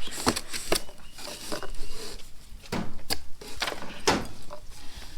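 Irregular knocks, clicks and packaging rustle as a new, heavy car jack is handled and unpacked from its box.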